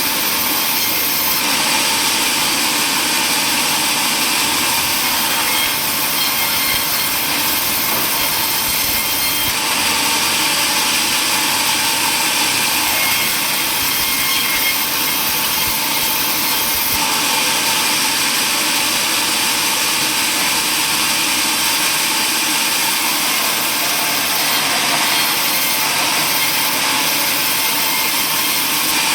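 Power saw running and cutting through wood: a steady, loud noise. The high hiss shifts in strength a few times.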